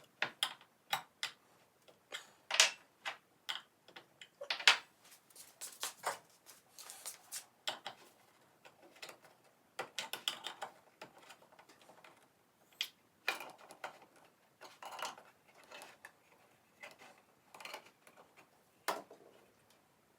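Irregular clicks, taps and knocks of small objects being handled, picked up and set down, with a few short clattery runs. The loudest knocks come about two and a half and four and a half seconds in.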